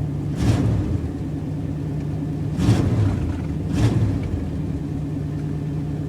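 1988 Chevy K1500's gasoline V8 running just after a cold start, following about three weeks of sitting. It idles steadily and surges briefly three times, about half a second, nearly three seconds and about four seconds in, as the throttle is blipped.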